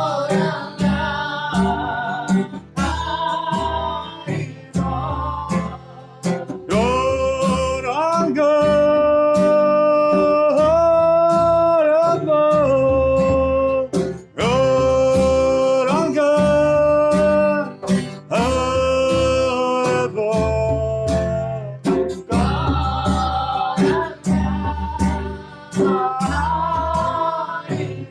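Kirtan music: voices singing the mantra in long, held phrases over strummed acoustic guitar with a steady rhythmic beat.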